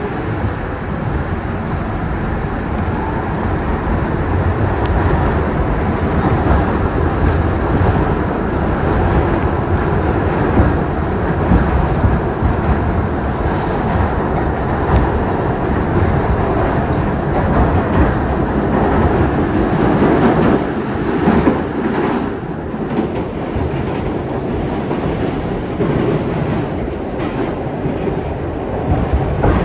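Kawasaki R62 subway car running along the track, heard from on board: a steady loud rumble with scattered clacks.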